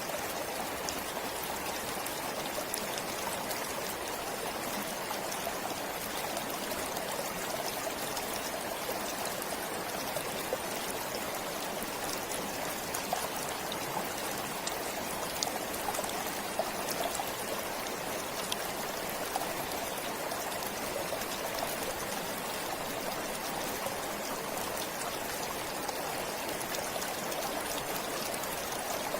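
A forest stream flowing steadily, water running and trickling over stones with small splashes.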